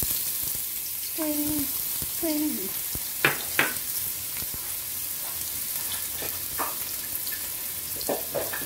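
Minced garlic and sliced ginger sizzling steadily in hot cooking oil in a wok. Two sharp clicks a little over three seconds in, and a few weaker ones near the end.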